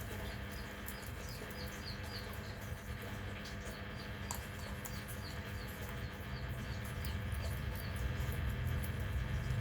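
A run of short, high chirps, about two or three a second, over a steady low hum and faint scattered clicks.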